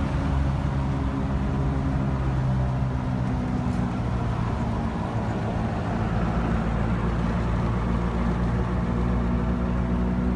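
Diesel truck engine running steadily with a deep, even drone.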